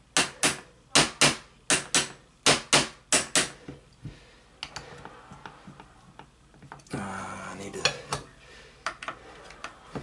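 Light metal taps on a musket's lock screws, coming in quick pairs about every half second for the first few seconds, driving the lock plate loose from the wooden stock. After that come softer scattered clicks and a short scraping, handling sound about seven seconds in.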